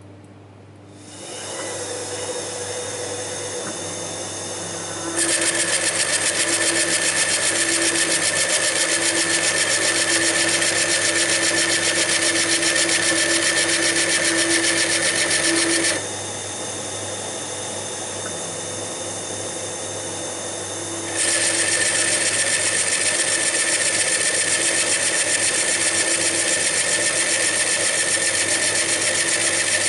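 HMT CNC T70 lathe starting up about a second in and running steadily. Twice it grows much louder with a sharper, higher sound: the tool cutting a step into the turning wooden workpiece. The first cut runs from about five to sixteen seconds in, and the second starts at about twenty-one seconds and continues.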